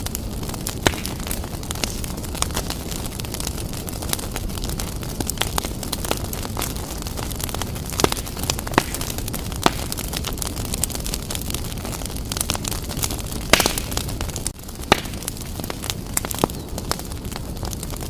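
Wood fire burning briskly in a fireplace: a steady low roar of the flames with frequent irregular crackles and a few sharp, louder pops.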